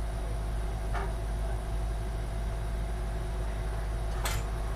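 Steady low background hum, with a faint click about a second in and a sharper click near the end from handling the computer case and motherboard while trying to seat the board.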